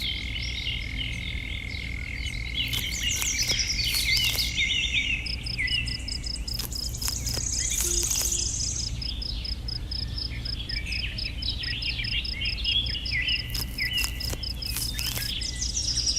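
Birds chirping and calling over a steady high insect trill, joined about five seconds in by a fast, evenly pulsing insect chirp; a steady low hum runs underneath.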